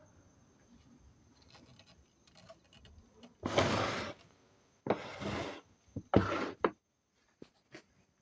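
Three short scraping sounds, each about half a second long, with a few faint clicks after them.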